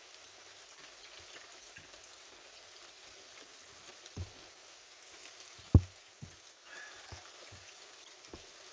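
Steady hiss of heavy rain, broken by a few short low knocks about 4, 6 and 8 seconds in, the one near 6 seconds a sharp thud much louder than the rest.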